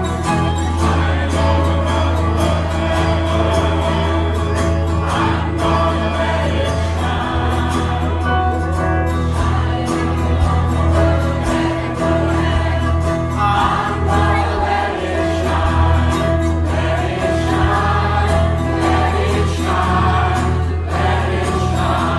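A group of people singing a Christian song together, with instrumental accompaniment and a steady beat.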